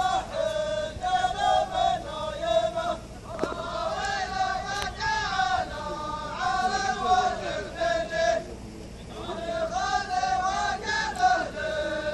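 A group of men chanting in unison, phrase after phrase, with short breaks about three seconds in and again near nine seconds.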